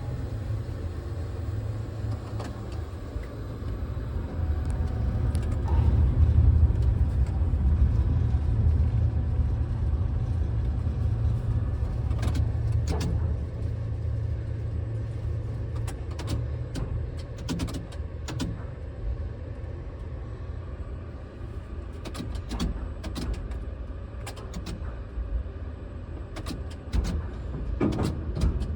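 Low rumble of strong wind buffeting the phone microphone in a tower crane cab high up, loudest a few seconds in, with scattered sharp clicks and knocks in the second half.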